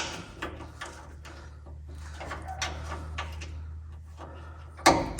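Scattered light clicks and knocks of hand tools being handled during work on the truck, over a steady low hum, with a louder clatter near the end.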